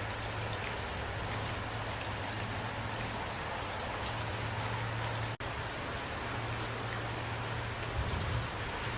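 Steady rainfall with scattered individual drops ticking on a surface, over a low steady hum. The sound cuts out for an instant about five seconds in, and a few low thumps come near the end.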